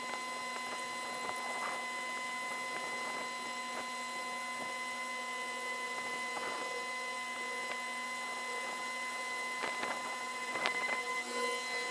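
Narrowboat engine noise played back twenty times too fast, which turns it into a steady high-pitched machine buzz with scattered faint clicks and a short flurry of ticks near the end.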